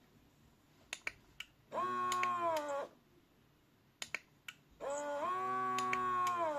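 Toy washing machine's small electric motor whining as it turns the drum in short bursts, one of about a second and then a longer one of nearly two seconds. Each rises in pitch as it starts and drops as it stops, with a few sharp clicks in the pauses between runs.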